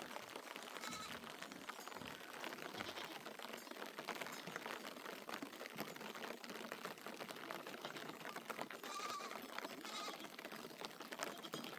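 Rain pattering steadily as a dense rush of tiny ticks, with sheep bleating faintly a few times, once early and twice near the end.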